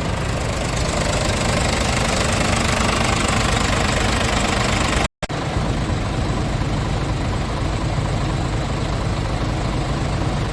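Scania S tractor unit's diesel engine idling steadily. The sound cuts out for a moment about halfway through.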